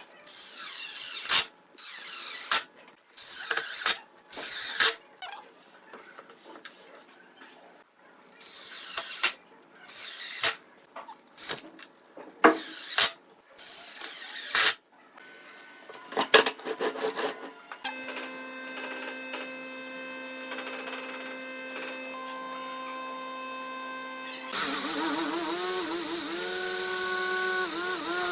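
Power drill running in a string of short bursts, then running steadily, then louder near the end with its pitch wavering as it works the wood.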